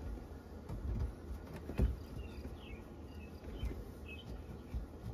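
Small birds chirping in short repeated calls over a low rumble, with a sharp knock a little under two seconds in and a smaller one a couple of seconds later.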